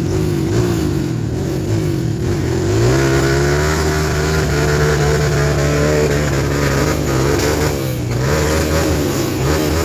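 Off-road trail motorcycle engines revving, their pitch wavering up and down, settling into a steadier held note about three seconds in.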